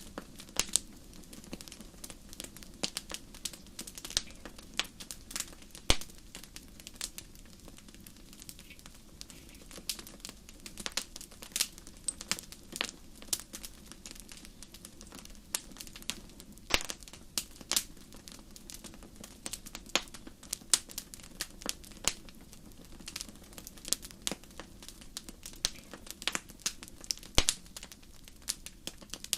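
Wood fire burning: irregular sharp crackles and pops, several a second at times, over a low steady rumble of the flames.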